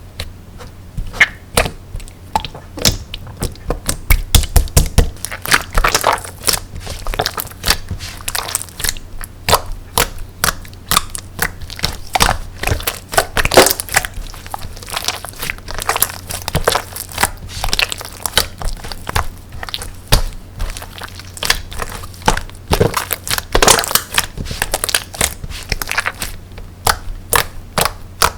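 Slime being squeezed and pressed by hand, giving a dense, irregular run of sharp crackling clicks and pops that starts about a second in.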